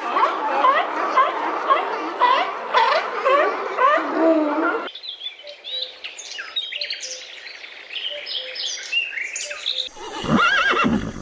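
Birds chirping and calling, many short quick calls overlapping. About five seconds in the sound cuts to higher, thinner chirps. Near the end a louder call with an arching pitch sets in.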